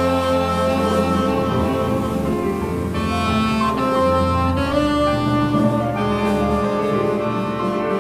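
Live jazz quintet playing: saxophone and bass trumpet holding long notes over piano and double bass.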